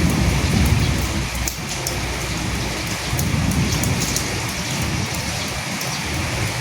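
Steady rain with individual close drops ticking on a surface, over a low rumble that swells near the start and again about halfway through.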